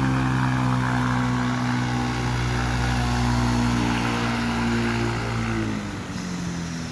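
Ultralight aircraft's piston engine and propeller running at a steady, even pitch, close by after landing. It eases off and partly dies away about six seconds in.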